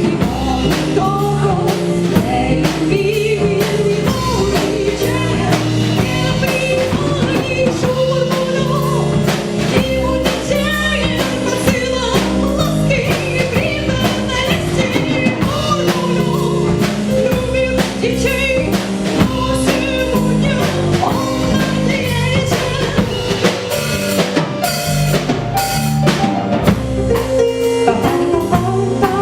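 Live band music with a full drum kit driving it, snare and rimshots over a steady bass and sustained melodic instruments.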